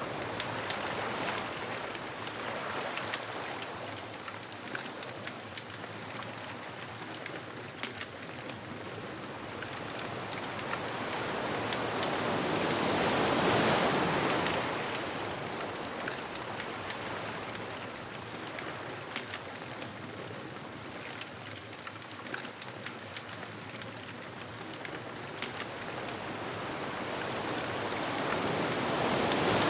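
Ocean waves breaking on a beach, with a steady wash of surf in between. Two waves swell and break, one about halfway through and another near the end.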